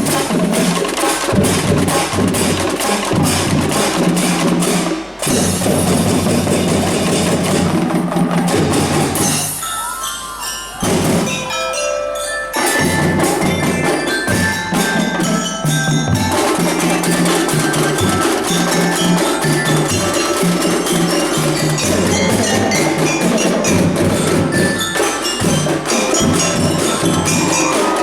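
A marching drum band playing: dense drumming with melody notes on mallet-struck bells. About ten seconds in the drums drop out and only the bell notes carry on; the full band comes back in about two and a half seconds later.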